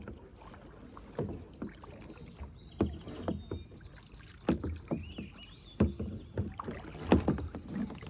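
Kayak paddles dipping and splashing in the water, with short, irregular strokes coming about once or twice a second.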